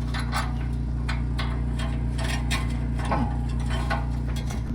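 Irregular light clicks and taps of hand tools working on the exhaust bolts under a pickup, about a dozen over a few seconds, over a steady low hum.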